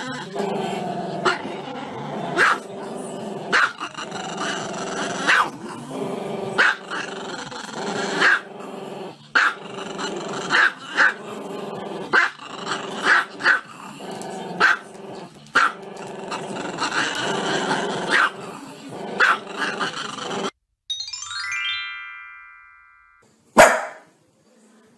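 Small black-and-tan dog barking in short, sharp yelps over background music, about one a second, with its muzzle pointed up. Near the end the music cuts off, a short falling run of chime tones plays, and a dog gives a single loud bark.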